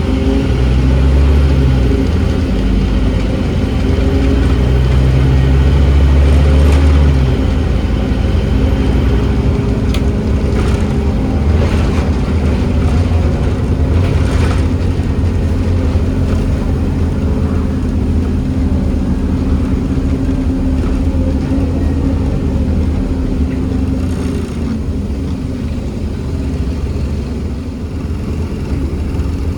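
Scania N270UD OmniCity double-decker bus heard from on board, its diesel engine pulling under load, loudest for the first seven seconds before the engine note drops, then running steadily. A few scattered clicks come from inside the bus.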